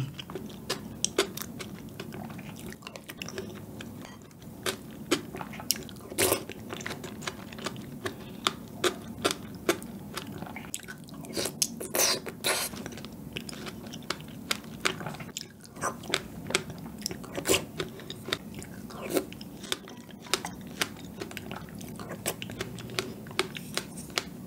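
Close-miked chewing and mouth sounds of eating soft, milk-soaked chocolate cake, with many short, sharp wet clicks at irregular intervals.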